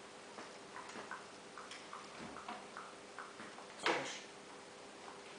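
Light clicks and taps of small coloured counting sticks being laid on a tabletop and against each other, irregular, with one louder clack about four seconds in.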